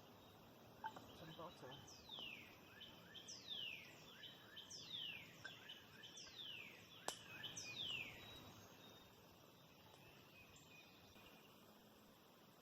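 A bird calling a series of five down-slurred whistled notes, about one a second, with small chirps in between, over a faint outdoor background. A single sharp click comes between the fourth and fifth notes.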